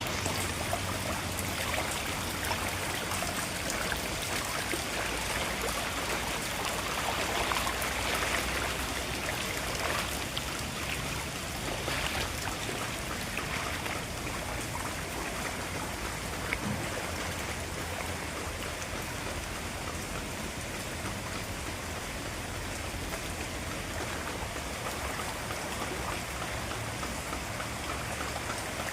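Steady rain falling, with scattered drops pattering on surfaces and the hiss of a heavy downpour.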